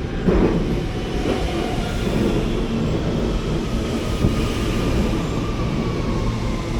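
Rail train running: a steady rumble, with a thin whine that glides slowly down in pitch from a couple of seconds in.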